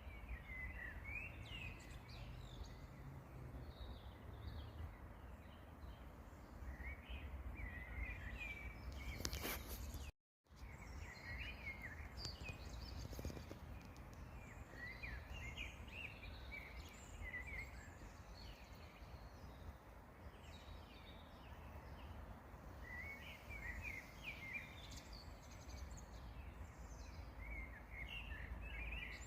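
Songbirds singing faintly, short chirping phrases coming and going throughout, over a low rumble of wind on the microphone. The sound cuts out abruptly for a moment about ten seconds in.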